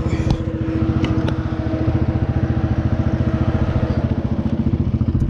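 Can-Am 1000's V-twin engine running steadily at low, even revs with a rapid pulsing exhaust note. A few sharp knocks sound within the first second and a half.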